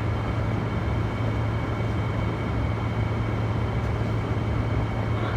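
Air conditioner's fan motor running on high speed with the compressor off: a steady rush of air with a strong low hum and a thin, steady high whine on top.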